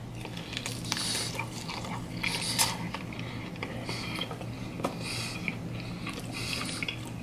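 A man biting into and chewing a soft chicken tender close to the microphone, with irregular chewing and mouth sounds about once a second.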